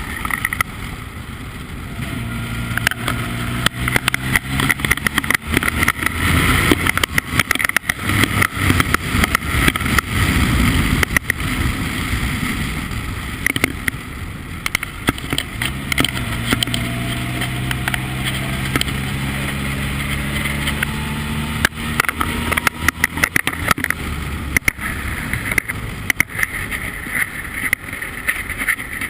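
Formula Ford race car engine running at a steady pitch, twice holding a note for several seconds, under heavy rushing, buffeting noise, as heard onboard at speed.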